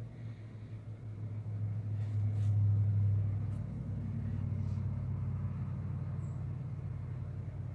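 Low engine rumble of a motor vehicle, swelling to its loudest about three seconds in and then running on steadily. A faint high bird chirp comes through once near the end.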